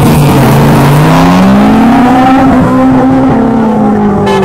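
Two drag-racing cars, a Honda Civic EK among them, launch off the line and accelerate hard away. The engine pitch climbs steadily, holds, then drops at a gear change a little after three seconds in.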